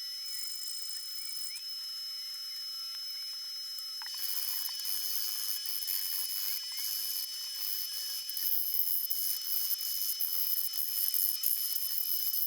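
Cleaning noises: a hissy, rasping scrubbing with scattered clicks that starts about four seconds in and grows louder, over a steady high-pitched whine.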